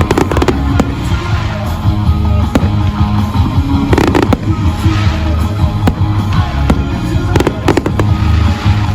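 Fireworks bursting with sharp bangs and crackles, in clusters at the start, around four seconds in and again around seven and a half seconds in, over loud music with a heavy bass.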